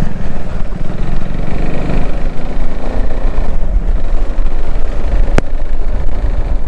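Wind blast buffeting a GoPro Hero 11 Media Mod microphone, fitted with a foam sponge and dead-cat windscreen, on a motorcycle riding at about 60 km/h: a loud, unsteady low rumble with the motorcycle's engine underneath. A single sharp click about five seconds in.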